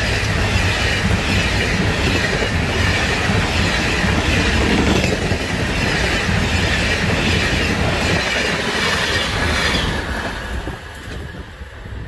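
Passenger coaches of a fast train passing close by, their wheels clattering over the rail joints amid steady rolling noise. The noise drops away sharply near the end.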